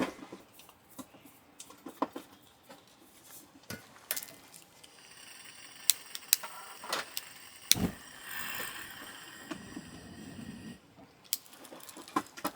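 Scattered clicks, knocks and rattles of small items being handled, with a stretch of rustling in the middle.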